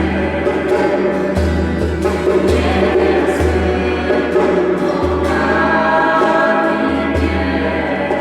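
Music: a band performing a Polish worship song, with singing over sustained chords and a bass line that moves note by note.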